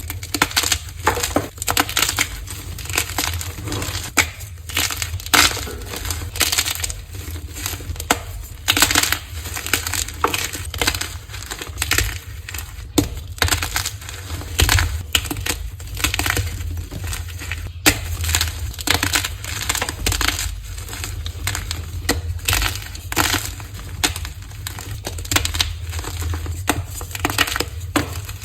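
Dyed gym chalk being crushed: a dense, irregular run of crunching and crumbling crackles with no pause. A steady low hum lies underneath.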